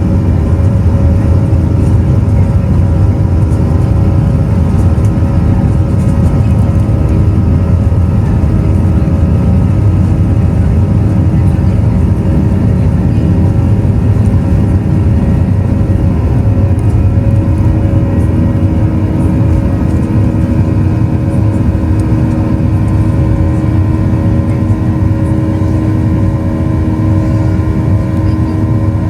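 Boeing 737-800's CFM56 jet engines running steadily, heard inside the cabin as a loud, deep rumble with several steady tones above it.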